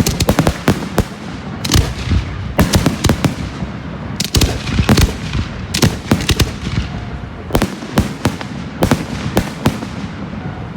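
Aerial fireworks exploding: a rapid, irregular string of sharp bangs, some in quick clusters, that thins out and stops near the end.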